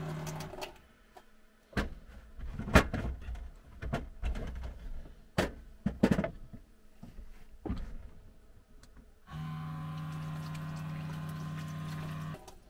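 Scattered knocks and clatter of things being handled. Then a small electric motor hums steadily for about three seconds and cuts off abruptly.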